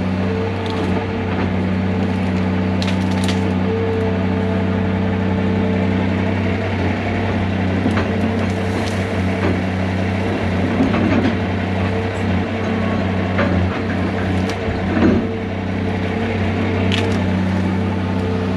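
Heavy diesel machinery running steadily while wood cracks and splinters with scattered sharp snaps, as trees and brush are broken and crushed during land clearing.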